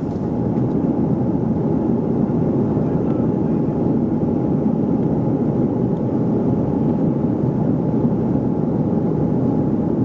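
Steady engine and airflow noise inside the economy cabin of a Boeing 737-400, its CFM56-3 turbofans running evenly with a faint steady hum over the rush.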